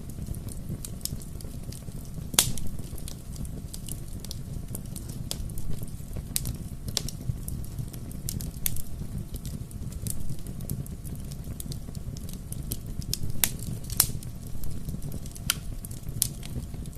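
Wood fire crackling: a steady low rumble of the flames with irregular sharp pops and snaps, the loudest about two and a half seconds in and again around fourteen seconds in.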